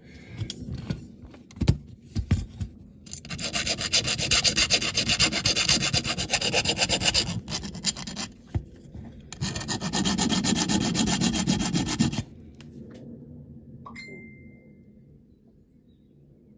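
Hand smoothing of the cut edge of a die-cast metal toy car body: rapid rubbing strokes with an abrasive tool in two long runs, a few seconds each, the second fuller and lower. A few light knocks come before, and a brief high ring sounds near the end.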